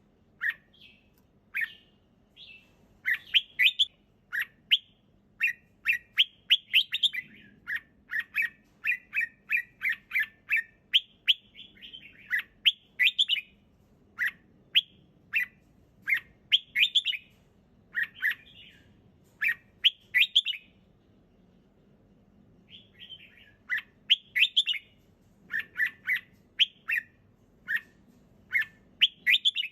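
Red-whiskered bulbul singing: short, quick phrases of clear whistled notes, repeated over and over, with a brief pause about twenty seconds in.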